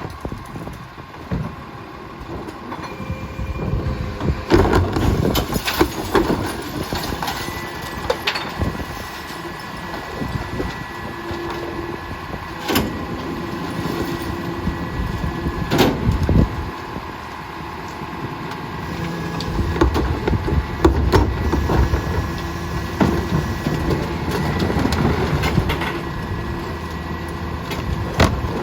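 Heil rear-loader garbage truck running, with loud clanks and bangs at irregular intervals and a steady tone over the engine through most of the middle.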